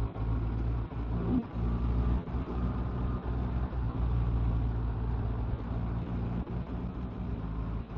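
Motorcycle engine running at a steady cruise on the road, with wind and road noise over it.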